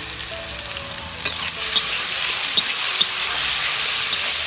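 Matchstick-cut potatoes sizzling in hot oil in a steel kadai while a spatula stirs them, with a few light taps and scrapes of the spatula on the pan. The sizzle grows louder a little over a second in as they are stirred.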